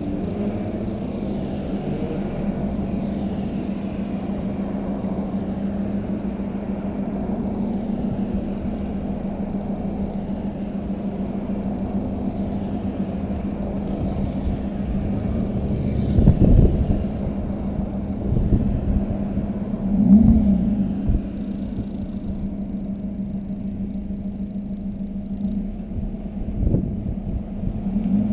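Volkswagen Golf 2.0 TDI diesel running through a 3-inch Cortek exhaust with a high-flow cat, giving a steady low drone. It swells louder briefly three times: a little past halfway, about two-thirds in, and near the end.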